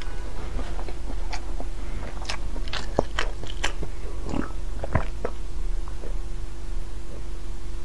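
Close-miked chewing and wet mouth sounds of a person eating, with scattered sharp clicks, then sipping and swallowing from a glass about four seconds in. A steady faint hum runs underneath.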